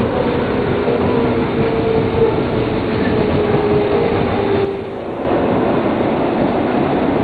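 Osaka Loop Line electric train running along the track: a steady rumble of wheels on rail with a held whine over it. The whine ends in a short drop in the noise about five seconds in, and then the rumble carries on.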